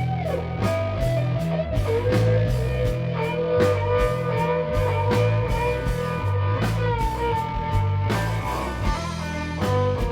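Rock band playing an instrumental passage: electric guitar holding long, bending notes over bass and drums with a steady beat.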